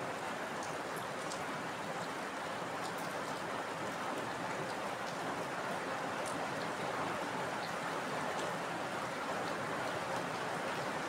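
Steady heavy rainfall, an even hiss with scattered sharp drop ticks, and no thunder.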